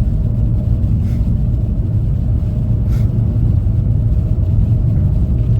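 Steady low rumble of a front-wheel-drive car driving slowly on snow-covered road on winter tyres, heard from inside the cabin: engine and tyre noise with a faint steady hum above it.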